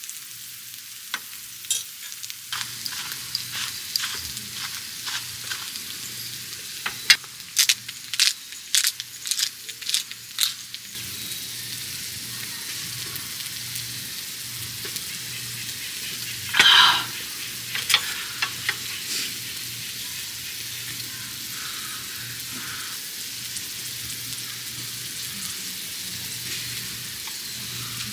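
Food sizzling in hot oil on a griddle pan, with sharp spattering pops through the first ten seconds or so and one louder, brief noise about 17 seconds in.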